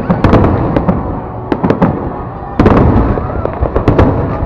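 Aerial fireworks display going off: rapid, irregular bangs and cracks over a continuous rumble of explosions, with a dense cluster of bursts a little past halfway.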